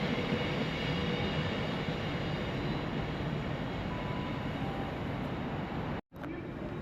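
A train running through the station: a steady rumble that slowly eases, broken off by a sudden brief dropout near the end.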